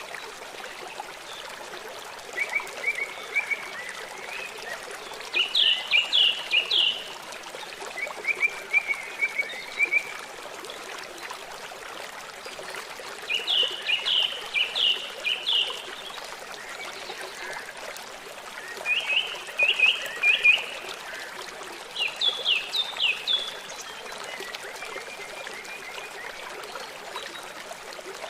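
Birds singing short phrases of quick chirps, several notes each, repeated every few seconds over a steady trickling stream.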